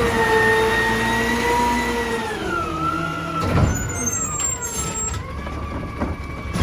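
Heil Durapack Rapid Rail side-loading garbage truck running with a steady whine that drops in pitch about two and a half seconds in and again around five seconds, as the revs come down. A short hiss of air comes about three and a half seconds in.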